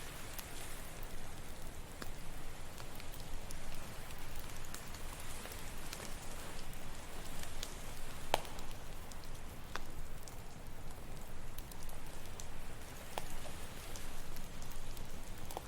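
Campfire crackling, with scattered sharp pops, the loudest about eight seconds in, over a steady wash of ocean waves.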